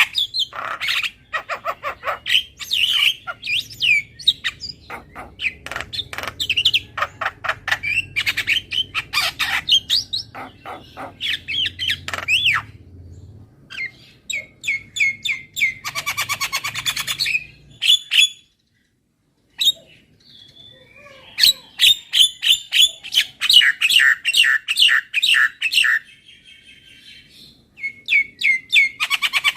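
Javan myna (jalak kebo) singing a fast chattering song of clicks, harsh squawky notes and whistles, broken by a brief pause about two-thirds of the way through.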